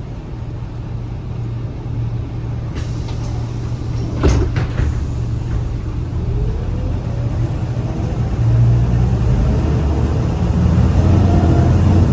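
Scania L94UA city bus with its engine running, a short sharp hiss of air a little after four seconds, then the bus pulling away: the engine note grows louder and a whine climbs steadily in pitch over the following seconds.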